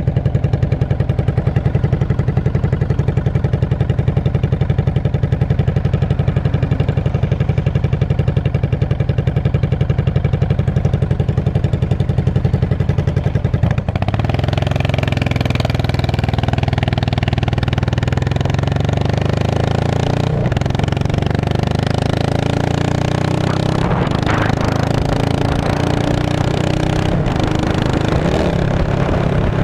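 2002 Yamaha V-Star 650's air-cooled V-twin running through straight pipes, first idling with a rapid, even pulse. About halfway the sound changes abruptly to a smoother, steady engine note whose pitch climbs slowly.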